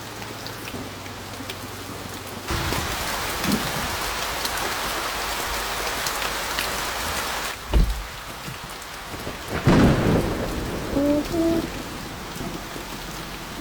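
Heavy rain on a car, heard from inside, swelling to a downpour about two and a half seconds in and easing again a few seconds later. A sudden deep boom of thunder follows, then a louder clap of thunder about ten seconds in.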